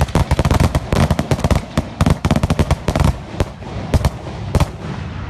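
Fireworks going off in a rapid run of loud bangs and crackles that thins out after about three seconds. Near the end come a couple of last separate bangs, followed by a fading rumble.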